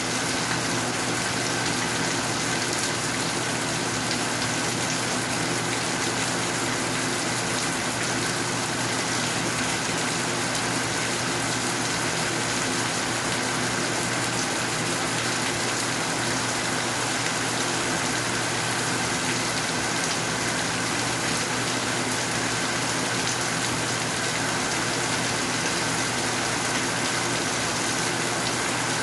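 Steady rain falling, an even, unbroken hiss of water that does not change.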